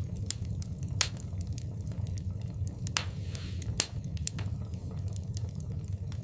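Wood fire burning in a fireplace, with irregular sharp crackles and pops over a steady low rumble of the flames; the loudest pops come about a second in and just before four seconds.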